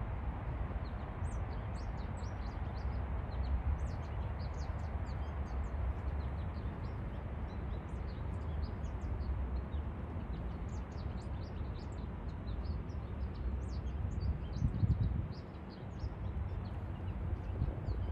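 Small birds chirping, many short high notes scattered throughout, over a steady low rumble.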